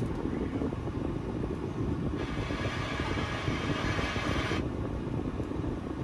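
Steady low rumble of an idling diesel engine, the 2012 Ford F-550's 6.7-litre Power Stroke turbo-diesel V8. A hiss comes in for about two seconds in the middle.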